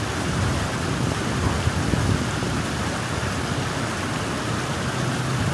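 Steady rush of water flowing through a newly cleared drain channel.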